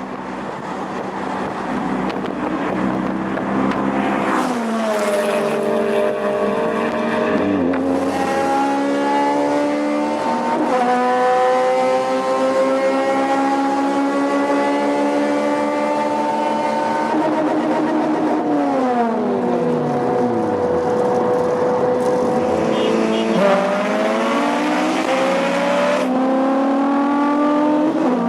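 Honda K20 four-cylinder engine accelerating hard, its pitch climbing steadily with a few sudden drops like gear changes, then falling away for a few seconds about two-thirds in before pulling up again.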